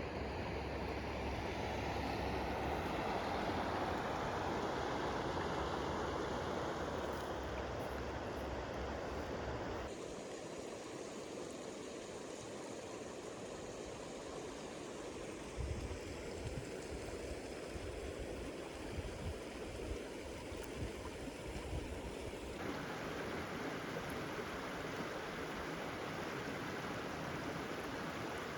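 Rushing water of a mountain stream or waterfall, a steady even wash that changes abruptly twice as the shots change.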